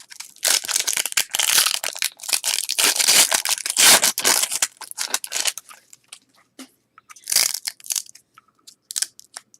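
Trading-card pack wrapper being torn open and crumpled by hand: a few seconds of dense crackling and crinkling, then a couple of short crinkles near the end.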